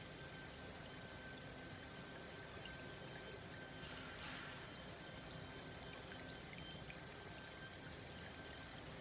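Small forest stream flowing gently, a steady babble of water over stones.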